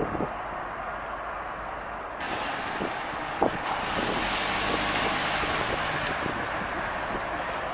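Road traffic: a motor vehicle passes, its engine and tyre noise swelling from about two seconds in, with a short sharp knock a little later.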